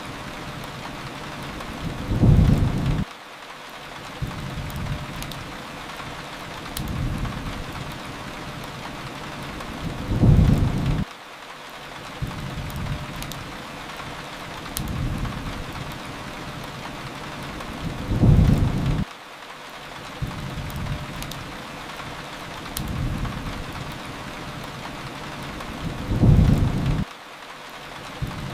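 Steady rain hiss with low rumbles swelling under it. The loudest rumble builds and cuts off sharply about every eight seconds, in a repeating pattern, and faint sharp crackles are scattered over the top.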